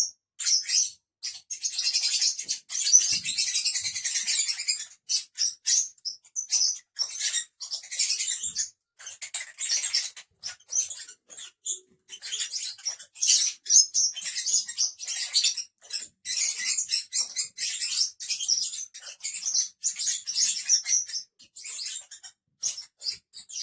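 A group of lovebirds chattering: a rapid, continuous stream of short, high-pitched chirps and squeaks.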